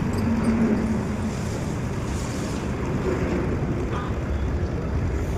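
Tata Prima truck's diesel engine running with a steady low rumble, a sound presented as an engine problem.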